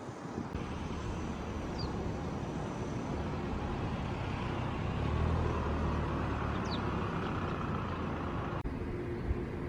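Outdoor ambience of steady road-traffic-like rumble, swelling in the middle as if a vehicle passes, with two short high chirps. The sound changes abruptly near the end.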